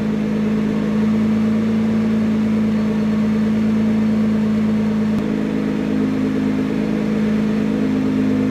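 Nissan GT-R's twin-turbo V6 idling steadily, its note shifting slightly about five seconds in.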